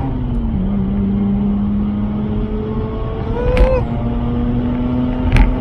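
Mazda RX-8's twin-rotor Wankel engine running hard at high revs under full throttle, heard from inside the cabin. The engine note drops in pitch about half a second in, like a gear change, then builds again. Two sharp knocks, one past the middle and one near the end.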